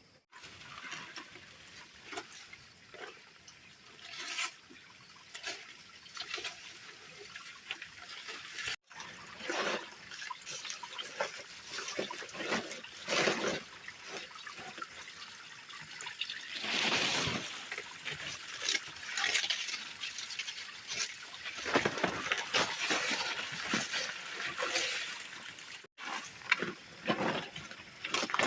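Water splashing and trickling in irregular bursts, busier in the second half, with two brief dropouts, one about a third of the way in and one near the end.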